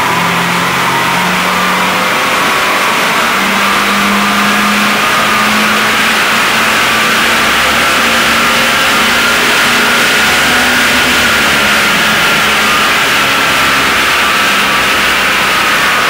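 Toyota Celica ST202's 2.0-litre four-cylinder engine running under load on a chassis dynamometer, its note climbing slowly and steadily as the revs rise through a power run, then easing slightly near the end.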